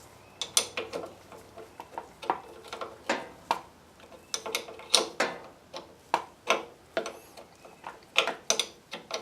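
Half-inch ratchet wrench clicking in short, irregular strokes on a battery terminal bolt, with metal-on-metal clinks; the ratchet is not catching properly.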